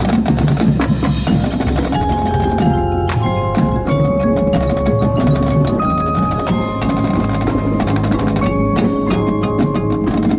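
Percussion ensemble playing: mallet instruments strike ringing, sustained pitched notes from about two seconds in, over a continuous low drum rumble.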